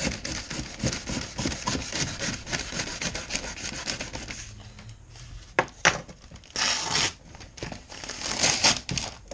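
Packaging of an amplifier wiring kit being handled and opened: quick repeated rubbing and scraping strokes, then after a quieter moment a couple of sharp snaps and louder rustling.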